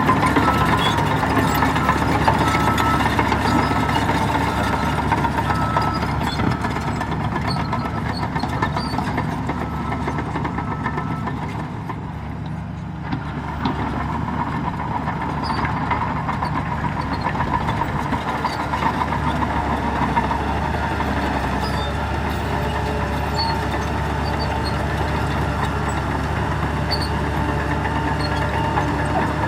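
Heavy diesel engines of a bulldozer and dump trucks running steadily. A truck's reversing alarm beeps repeatedly through roughly the first ten seconds, then stops.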